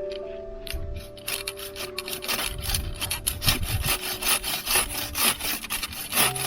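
Hand saw cutting through wood in quick back-and-forth strokes, the sawing getting steady about a second in. Soft background music plays underneath.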